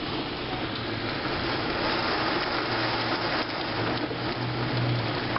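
Heavy rain pouring steadily, with a low steady hum of traffic engines underneath.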